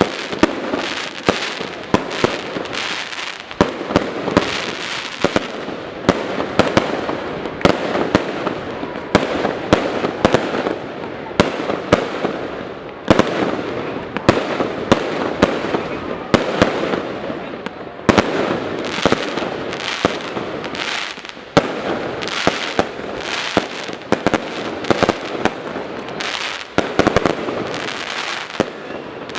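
Fireworks display: a dense, continuous barrage of shell bursts and crackling, with several sharp bangs a second over a steady crackle throughout.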